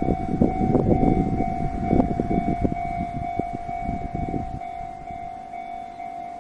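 Nishitetsu train running past, a low rumble with rapid clacks of wheels over rail joints that dies away about four and a half seconds in, while a Japanese level-crossing alarm rings on with a steady tone.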